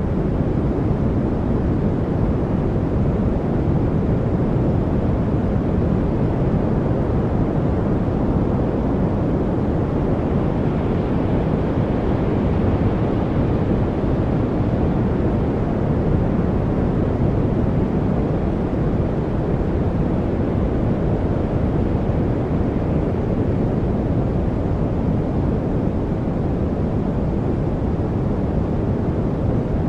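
Steady study-aid noise: an even, deep rushing hiss weighted toward the low end, without birds, voices or any separate sounds.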